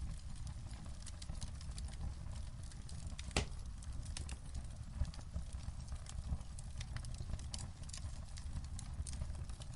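Wood fire crackling in a fireplace: irregular sharp pops and snaps over a steady low rumble, with one louder pop about three and a half seconds in.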